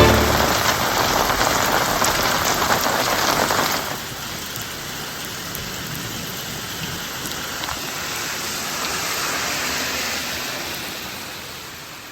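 Rain falling steadily. It is louder at first, drops suddenly about four seconds in, then continues evenly and fades away near the end.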